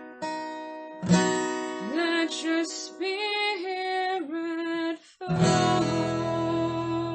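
Acoustic guitar strumming under a woman's voice singing a sliding, wordless melody; just after five seconds in the sound drops out briefly, then a full chord rings on.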